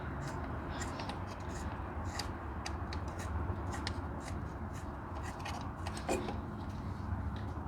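Hand tools working on a rusted exhaust manifold: scattered light metallic clicks and scraping, with a louder knock about six seconds in, over a steady low hum.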